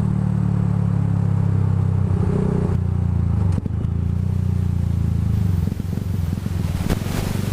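Vehicle engine running steadily at low revs, with a brief dip in level about three and a half seconds in.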